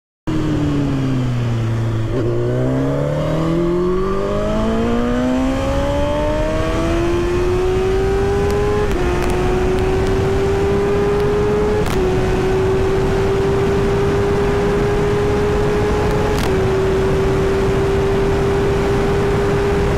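Motorcycle engine accelerating through the gears: its pitch climbs steadily and dips briefly at each of three upshifts. A steady rush of wind noise runs underneath.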